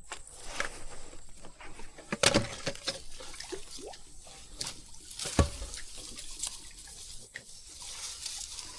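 Water splashing and sloshing as a small hooked wild carp is drawn in at the surface, in irregular splashes with two sharper, louder ones about two and five seconds in.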